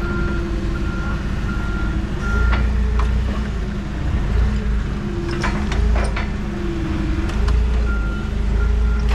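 A vehicle's reversing alarm beeping about twice a second over a running engine, stopping about two seconds in and starting again near the end, with a few sharp clanks in between.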